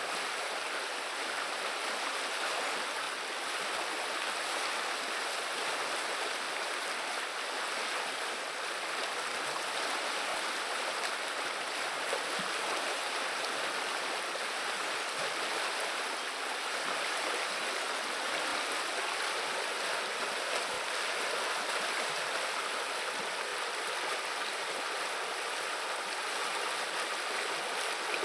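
River water flowing over a shallow stretch, a steady babbling rush with no letup.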